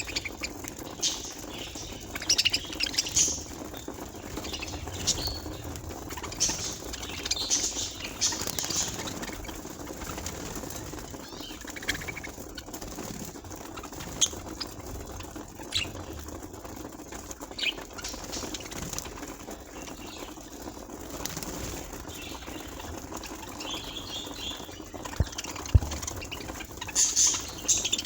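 Budgerigars chirping and chattering in short, scattered high calls over a steady background noise, with a couple of sharp knocks near the end.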